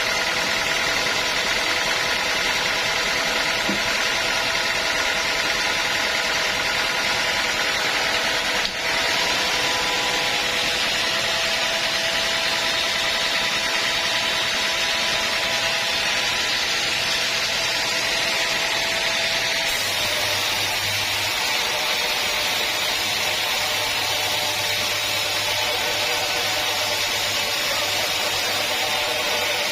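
Sawmill saw cutting through a teak log, a steady mechanical whine with a hiss of cutting. There is a brief dip about a third of the way in, and the whine shifts pitch with a low hum added about two-thirds of the way through.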